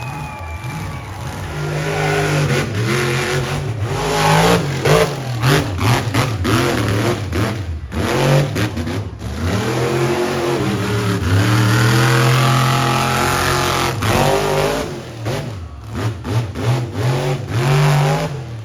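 Monster truck engine revving hard, its pitch climbing and dropping again and again as the throttle is worked, with several sharp bangs along the way.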